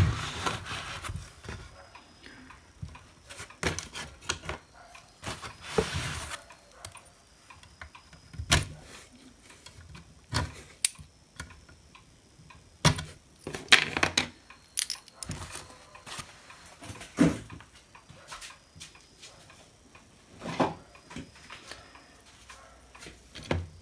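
Irregular clicks, knocks and short rattles of metal parts and tools being handled while a hot air rework station's casing and front panel are taken apart.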